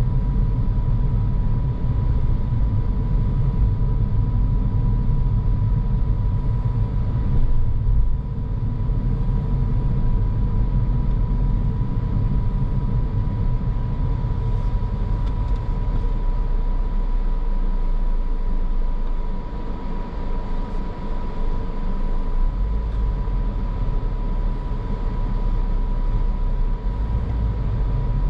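Car driving along: steady low rumble of tyres on the road and the engine, with a faint steady high tone running underneath.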